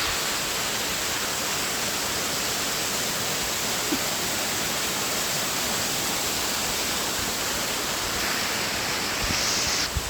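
Waterfall: a steady, even rush of falling water, with a few low bumps near the end.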